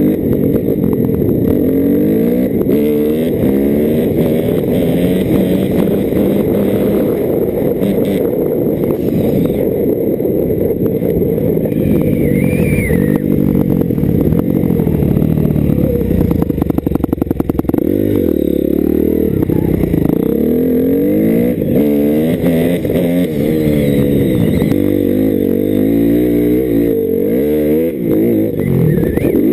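Dirt bike engine running and being revved, its pitch climbing and dropping again and again as the rider works the throttle.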